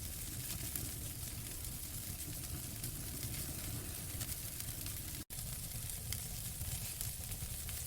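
Wood fire in a fireplace burning with a steady hiss and low rumble, dotted with small crackles. The sound cuts out for an instant about five seconds in.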